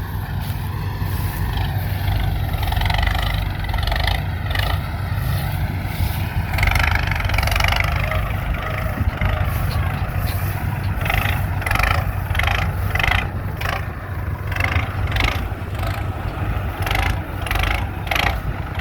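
Kartar 5936 tractor's diesel engine running steadily with a deep rumble.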